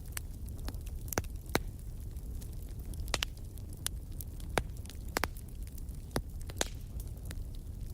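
Wood fire burning: sharp crackles and pops at irregular intervals over a low, steady rumble of the flames.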